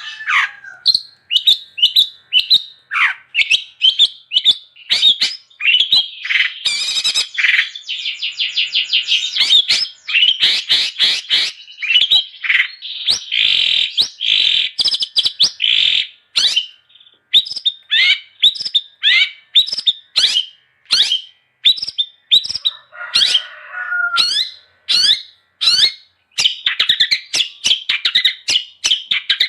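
Long-tailed shrike (cendet) singing in a fast, continuous run of sharp chirps and quick trills, broken by harsh, rasping chatters at the start and about 23 seconds in.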